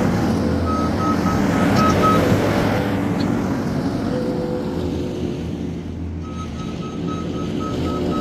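New Holland C232 skid steer's diesel engine running steadily, with its backup alarm beeping rapidly, about four beeps a second, for a moment near the start and again from about six seconds in as it reverses.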